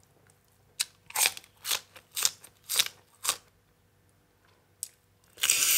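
Crunchy chewing of crisp raw vegetables close to the microphone: about eight sharp crunches in quick succession, then a pause. Near the end a loud hissing noise starts.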